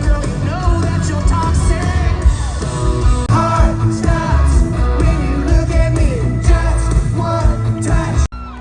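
Live country band playing over heavy bass and drums, with a voice singing the melody. A little over eight seconds in, the sound cuts off abruptly and quieter music follows.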